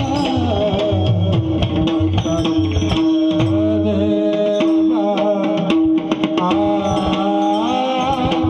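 Devotional singing with a mridang (pakhawaj, the two-headed barrel drum) playing a steady run of strokes beneath, over a held drone tone.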